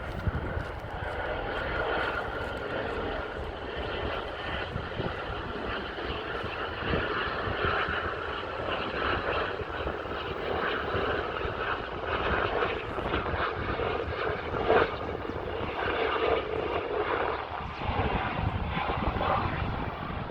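Helicopter flying by, a steady engine and rotor noise.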